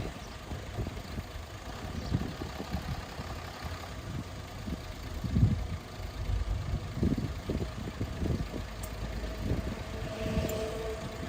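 Diesel engine of heavy earthmoving machinery running, a low rumble that surges unevenly, with a faint higher steady tone near the end.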